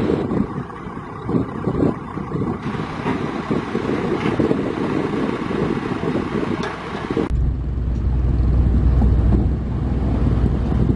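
Heavy diesel machinery engine running, with wind buffeting the microphone. About seven seconds in the sound changes abruptly and a steady, deeper engine rumble takes over.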